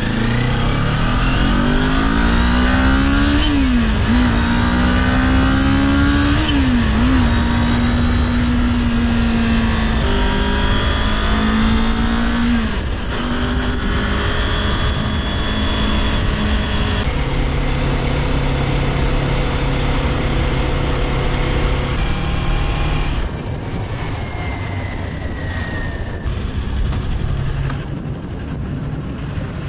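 Kawasaki Ninja 400 parallel-twin engine accelerating, its pitch climbing and dropping sharply at upshifts about four and seven seconds in. It then cruises steadily and steps down to a lower, quieter note in stages over the second half as the bike eases off, with steady wind noise on the microphone throughout.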